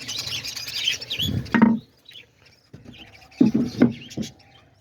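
Small parrots chirping, dense for the first second and a half and then sparser. Squeaky calls in among the chirps sound like nestlings begging from a nest box. A few short louder calls come about three and a half seconds in.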